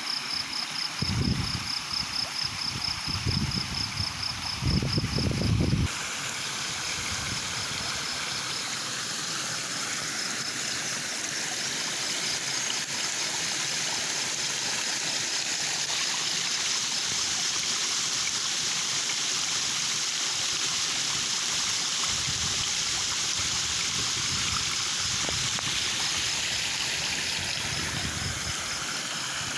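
A stream flowing and trickling with a steady rush of water, under a high, evenly pulsing insect trill. In the first six seconds several low rumbling bursts come over the water, and then the sound changes suddenly to an even, continuous flow.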